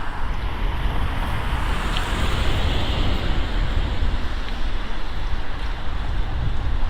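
Wind buffeting the microphone of a camera on a moving bicycle, a steady low rumble, over street traffic noise that swells briefly about two seconds in.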